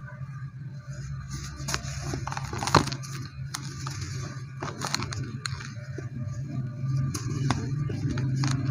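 White cement crunching and crackling as it crumbles, in irregular sharp clicks, over a steady low hum.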